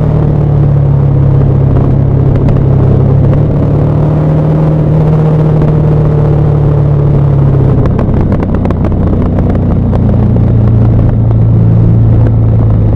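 KTM 1190 Adventure R's LC8 V-twin engine and exhaust running at steady revs on a downhill ride. About two-thirds of the way through, the pitch drops and then holds lower.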